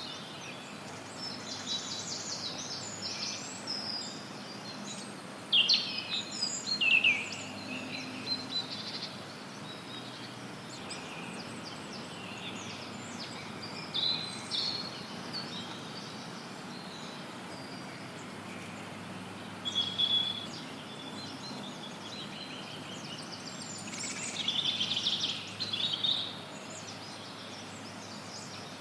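Several songbirds singing and chirping in scattered phrases, some rapid trills, the loudest about six to seven seconds in, over a steady hiss of added white noise.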